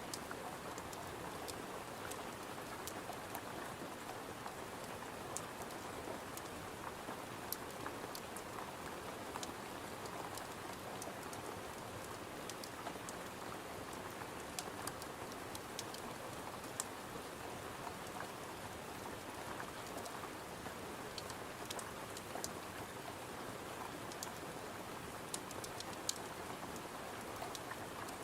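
Steady rain, with many short sharp crackles of a wood fire scattered irregularly through it.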